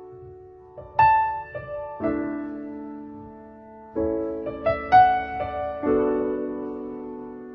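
Background piano music: slow, sustained chords that ring and fade, with a few higher melody notes over them.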